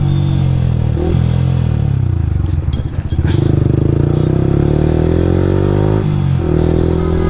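Yamaha R15 V3's single-cylinder engine through an aftermarket Akrapovic exhaust while riding: the engine note falls as the bike slows, a couple of short clicks come about three seconds in, then the note rises steadily under throttle with a brief break for a gear change about six seconds in.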